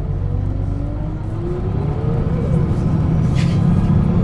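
Engine of a 1996 Setra S 315 UL bus pulling away, a steady low rumble with a whine from the ZF gearbox rising in pitch, which breaks off about two and a half seconds in as the engine gets louder. A short hiss near the end.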